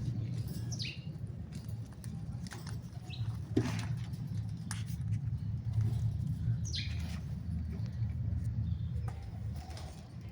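Parrots giving a few short, sharp chirps that fall in pitch, with a couple of clicks, over a steady low hum.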